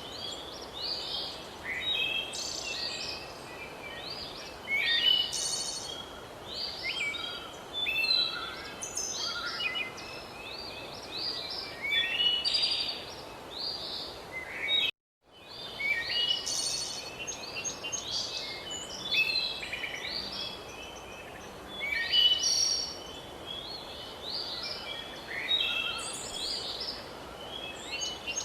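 Many songbirds chirping and singing together over a steady background hiss, with short calls following one another throughout. The sound cuts out completely for a moment about halfway.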